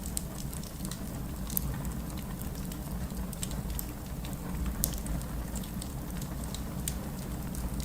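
Fireplace crackling with irregular sharp pops over a steady low rumble of rain.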